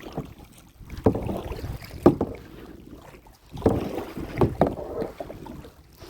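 Kayak paddle strokes dipping and pulling through the water, a swish and splash roughly once a second.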